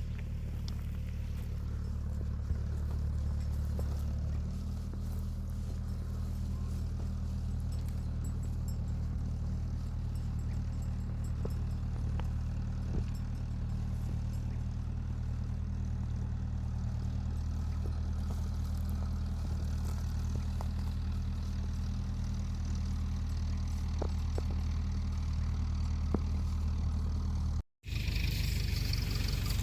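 An engine running steadily with a low hum, with a few faint clicks over it. The sound drops out for an instant near the end and comes back with more hiss.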